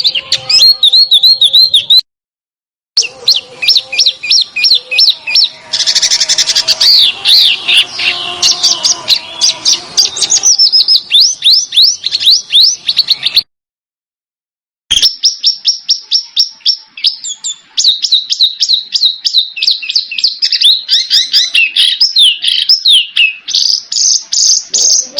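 A small songbird singing fast runs of sharp, high chirps and trills, several notes a second, with a rougher, scratchier stretch in the middle. The song breaks off twice for a moment, about two seconds in and about halfway through, where the recording is cut.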